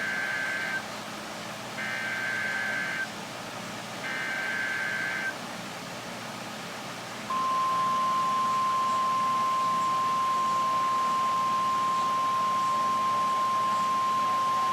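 NOAA Weather Radio alert signal: three short bursts of buzzy, warbling data tones (the SAME digital header), then, about seven seconds in, a loud steady single-pitch warning alarm tone that holds on. It announces that a new weather warning is about to be read.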